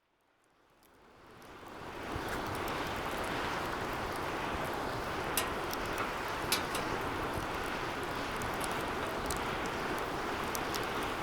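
Wood fire burning in a steel DOD Mecha Moe Fire 2 fire pit: a steady rushing crackle that fades in over the first two seconds, with a few sharp pops about five and six and a half seconds in.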